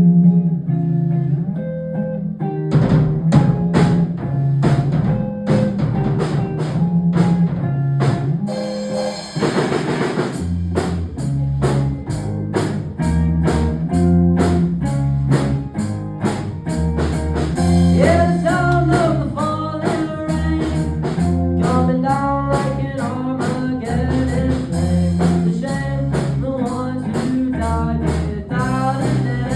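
A band playing a song on guitar and drum kit. The drums come in about three seconds in, and a bass line joins about ten seconds in.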